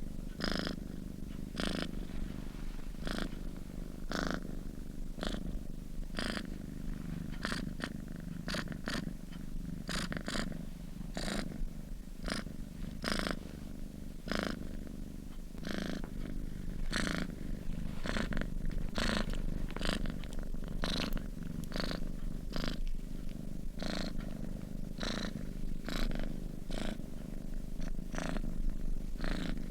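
A sleeping domestic cat purring close up: a steady low rumble with short, sharp breath sounds about once or twice a second.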